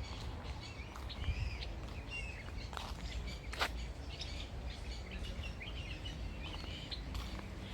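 Several birds chirping and warbling in short calls, over a steady low rumble of outdoor noise, with one sharp click about three and a half seconds in.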